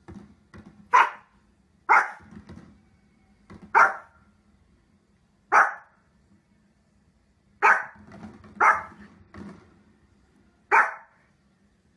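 A small dog barking: seven short, sharp barks, spaced irregularly a second or two apart, with fainter low sounds in between.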